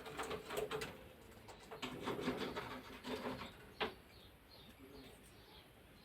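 Scratchy rubbing and clicking in two spells, the second ending in one sharp click, then a run of faint, quick, high chirps from a parrotlet, about four a second.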